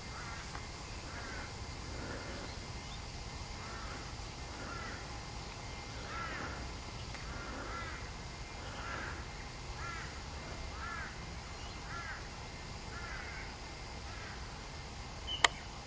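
A bird calling over and over, short arched notes about once a second, faint over a low outdoor hiss. A single sharp click comes near the end.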